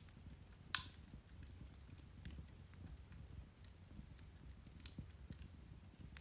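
Irish turf (peat) fire crackling: scattered small ticks and pops over a low rumble, with one sharp pop about a second in and another near the five-second mark.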